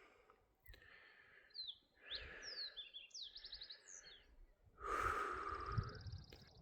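A hiker breathing hard, with small songbirds chirping and whistling short sliding notes. The breathing grows louder about five seconds in, and a quick bird trill comes near the end.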